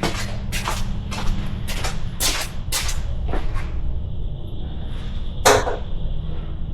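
Irregular sharp clicks and knocks of hard tools and parts being moved about while searching through them, over a steady low hum. The knocks come every half second or so at first, then thin out, with one louder knock about five and a half seconds in.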